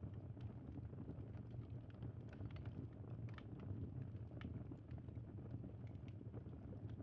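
Crackling bonfire: a steady low rush with irregular small pops and snaps scattered through it.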